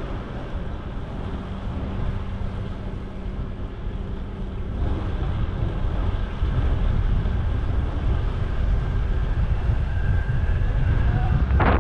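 Wind rumbling on the microphone of a moving bicycle, mixed with city street traffic, growing louder about halfway through and ending in a brief loud rush of noise.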